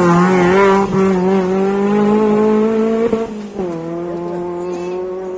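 Rally car engine running hard at high revs, its pitch climbing slowly for about three seconds, then dropping sharply and holding steady.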